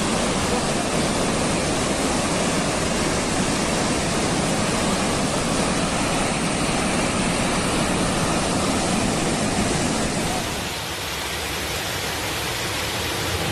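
Loud, steady rush of water, changing to a slightly quieter rush about ten and a half seconds in.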